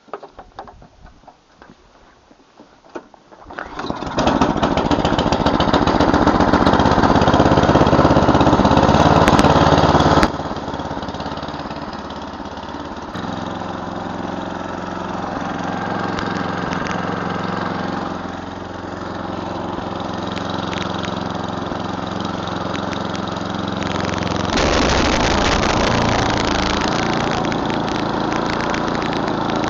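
An 11 hp Tecumseh engine on a Murray Select snowblower starts a few seconds in and runs fast. About ten seconds in it drops to a steady run, and it gets louder again about five seconds before the end.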